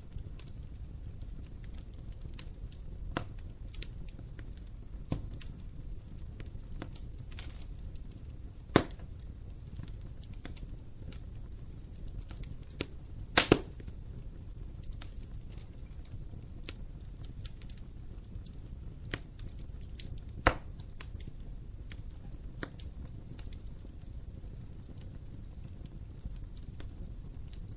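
Wood fire burning in a fireplace: a steady low rumble of the flames with scattered sharp crackles and pops, the loudest a quick double pop about halfway through.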